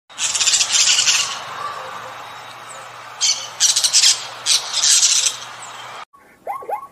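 Harsh, raspy bird squawks in four or five bursts, the loudest at the start. Near the end the sound cuts to a different animal's short yelping calls, two or three in quick succession, each dipping and rising in pitch.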